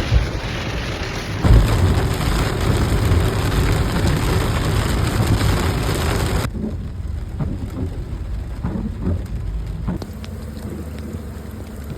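Heavy rain pouring down, with a strong low rumble under it. A little past halfway the sound drops abruptly to a quieter patter with a few faint knocks.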